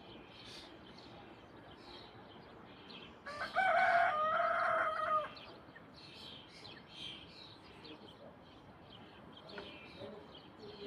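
A rooster crowing once, a single call of about two seconds that starts a few seconds in. Small birds chirp faintly throughout.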